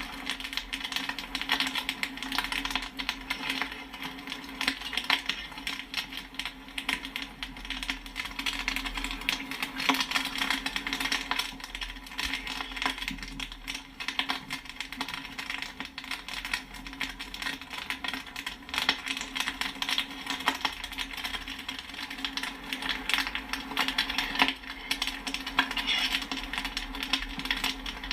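Popcorn popping fast: a dense, uneven run of sharp pops and metallic pings from kernels bursting, over a steady low hum.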